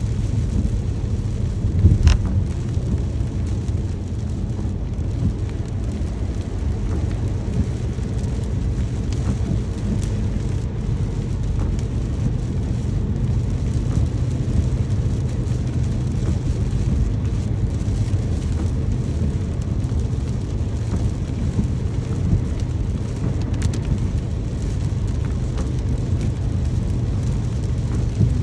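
Steady rain with a continuous low rumble beneath it, and one brief thud about two seconds in.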